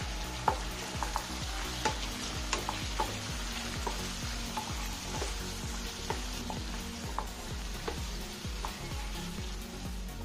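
Sliced onions, green chillies and freshly added chopped tomatoes sizzling in hot mustard oil in a non-stick pan while a wooden spatula stirs them, with scattered light clicks and scrapes of the spatula against the pan.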